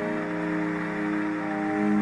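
Slow ambient music of long held drone tones over a soft, even hiss, with a new lower note swelling in near the end.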